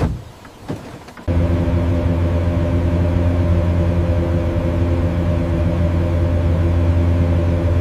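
A restored airplane powering up: a couple of faint clicks, then about a second in a deep, steady machine hum switches on abruptly and holds at an even pitch.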